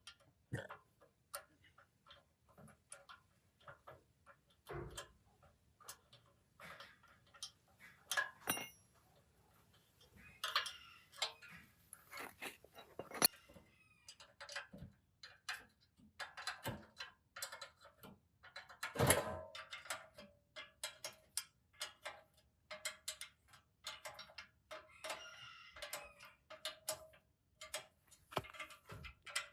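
Irregular clicks, taps and knocks of hand tools working on metal machine parts, with a faint metallic ringing that comes and goes from about two-thirds of the way in.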